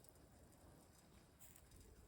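Near silence: a faint, even low rumble and hiss, with a faint high tick about one and a half seconds in.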